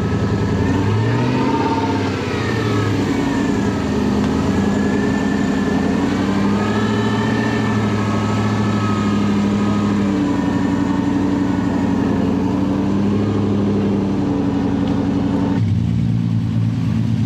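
Classic Range Rover's engine revving up and down under load as the 4x4 crawls over a rough trial section, its pitch rising and falling repeatedly. Near the end the sound cuts abruptly to another off-road vehicle's engine running.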